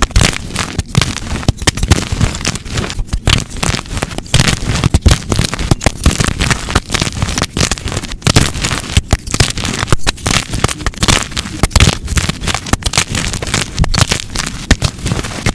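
Blocks of gym chalk crunching and snapping as they are crushed by hand: a dense run of sharp crackles and cracks.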